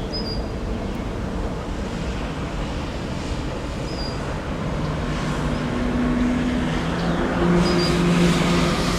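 Diesel freight locomotive approaching, its engine drone over a low rumble growing louder, with steady engine tones coming in about halfway through.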